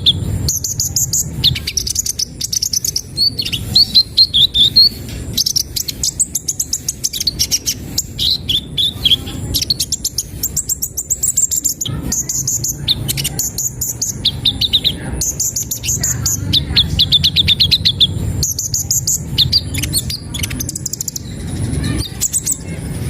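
Caged sunbird (kolibri ninja) singing its learned song phrases: high, rapid trills and chirps in repeated bursts with short pauses between them, over a steady low hum.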